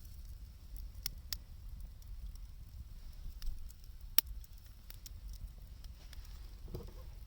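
Wood fire of burning lumber crackling, with scattered sharp pops, the loudest about four seconds in.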